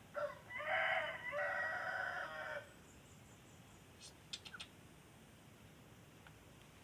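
A rooster crowing once: one long pitched call in two held parts, lasting about two and a half seconds. A few faint clicks follow a little later.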